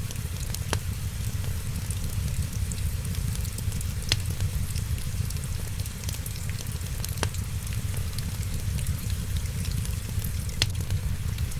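Wood fire crackling with many small ticks and four sharper, louder pops a few seconds apart, over a steady low rumble and hiss of rain.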